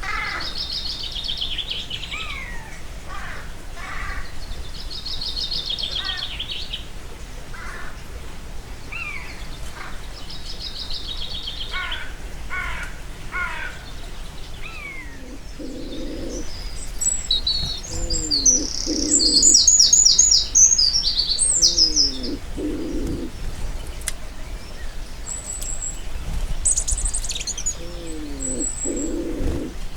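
Woodland bird chorus from a swampy forest: several birds giving trilled phrases and short falling whistles, then a louder, fast high chattering about two-thirds of the way in. Low, repeated calls with short downward slides join in the second half.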